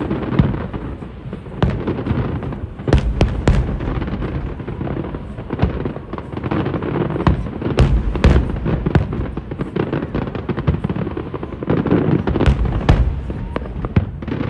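Aerial fireworks display heard at a distance: a continuous barrage of booming shell bursts and sharp cracks, overlapping with rolling rumble and echo between them.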